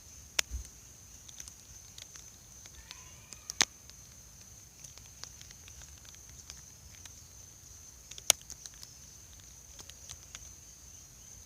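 Quiet woodland ambience: a steady high-pitched insect drone with scattered light ticks, and three sharp snaps about half a second, three and a half and eight seconds in.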